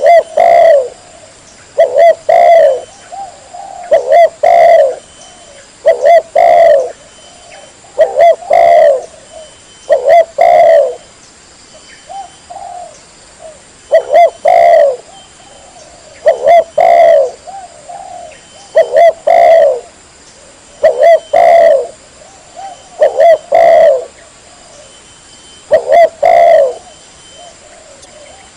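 Spotted dove (tekukur) cooing loudly, the same call repeated about every two seconds: a couple of short notes and then a longer falling coo.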